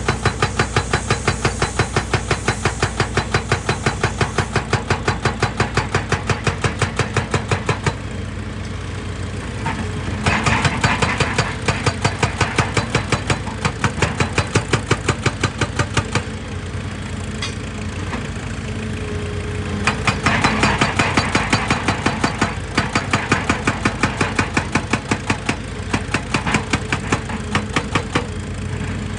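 Heavy machinery hammering at rock in rapid, even blows, about five a second, over a running diesel engine. The hammering pauses twice, briefly a third of the way in and for about four seconds past the middle, while the engine keeps running.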